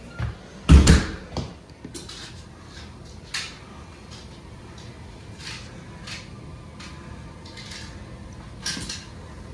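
A loud thump about a second in, followed by scattered light clicks and knocks, several seconds apart.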